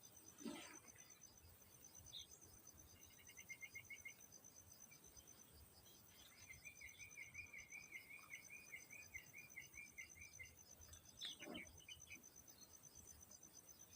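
Crickets chirping in a steady, rapid, high-pitched pulse, with a bird's short trill about three seconds in and a longer rapid trilled call from about six to ten seconds. Two brief falling sounds, one near the start and one about eleven seconds in, are the loudest moments.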